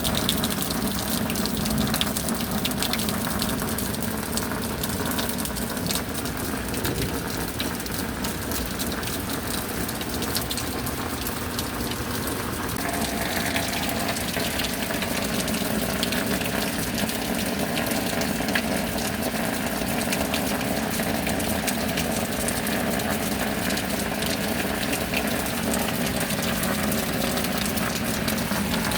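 Steady rain with a constant gush of running, pouring water; the tone of the flow shifts slightly about halfway through.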